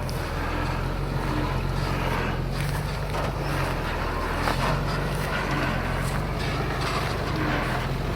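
A heavy diesel earthmoving machine's engine running steadily, with scattered clanks and rattles over it.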